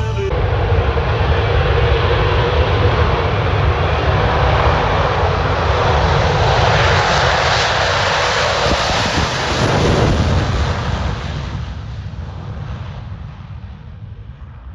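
Aircraft flying past low: a loud engine roar that peaks about ten seconds in and then fades away.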